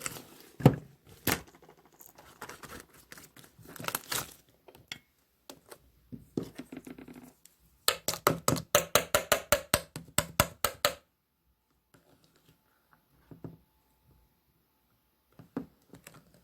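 Slime being played with by hand: irregular squishing and crackling, then a fast run of crisp pops about seven a second for some three seconds, after which it goes mostly quiet with a few faint clicks.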